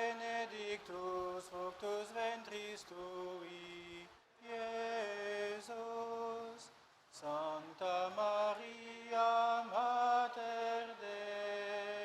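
Male voices chanting a Latin prayer on a few held notes, stepping between pitches, with short pauses between phrases.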